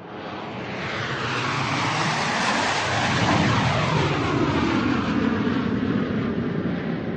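Airplane flying overhead: a rushing engine noise that fades up from nothing, grows louder over the first three seconds with a sweeping, shifting tone, and stays loud to the end.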